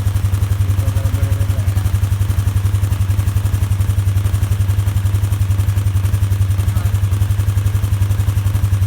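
Polaris Sportsman 450 ATV's single-cylinder four-stroke engine idling with an even, steady chug of about eight pulses a second. It is running after a cold start following about two weeks of sitting.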